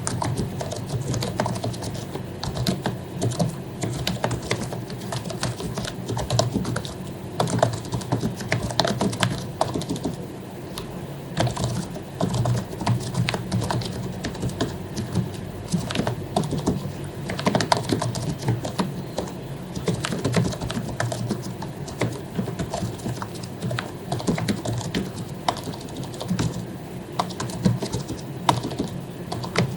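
Continuous typing on an HP membrane keyboard with lubricated keycaps: an irregular run of soft key clacks, several a second.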